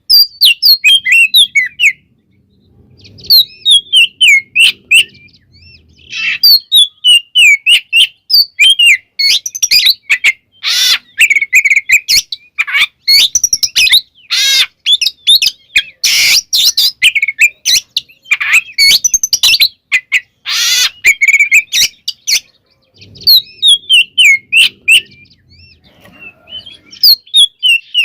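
Oriental magpie-robin (kacer) singing a fast, varied song of high whistles and trills in phrases with short pauses. A few loud, harsh rasping notes come near the middle.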